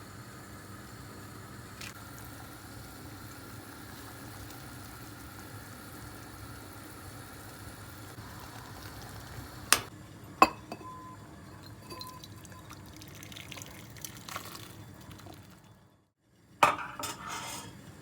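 Two sharp clinks of glass or tableware about ten seconds in, a few faint taps, and a short clatter of dishes near the end, over a steady faint kitchen background.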